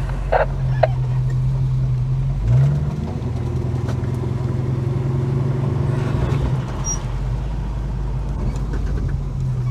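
Holden HK car engine running while driving at low speed, heard from inside the cabin. About two and a half seconds in it briefly revs up, then settles back to a steady note.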